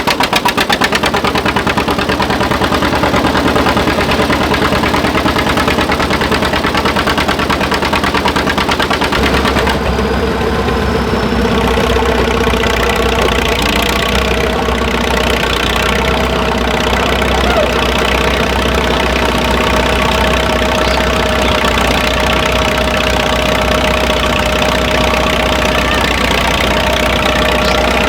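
An engine running steadily, with a fast, even firing beat; its sound changes abruptly about nine to ten seconds in and carries on running.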